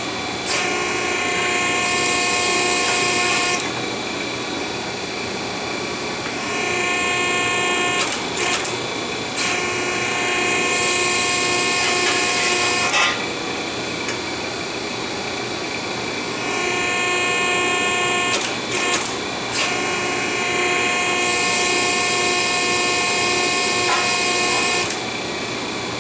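Hydraulic exhaust-pipe bender running: a steady motor whine with louder, hissing stretches about every ten seconds as it works the tubing, and a few sharp clicks.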